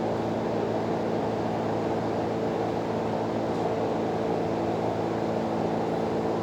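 A steady mechanical drone at one unchanging pitch, like a motor or engine running.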